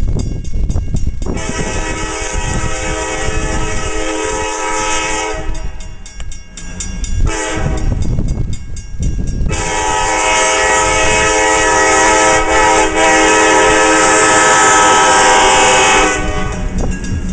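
Diesel train led by EMD F-unit locomotives passing, engines rumbling under a multi-tone air horn: a long blast, a short one, then a long blast held about six seconds.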